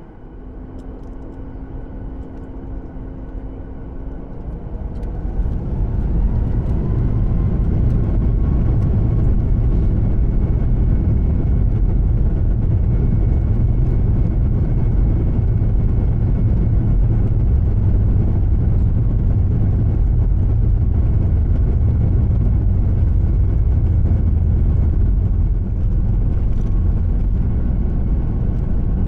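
Boeing 737 MAX 8's CFM LEAP-1B turbofan engines spooling up to takeoff thrust, heard inside the cabin: a whine rising in pitch and the sound swelling over the first few seconds, then a loud, steady low rumble through the takeoff roll.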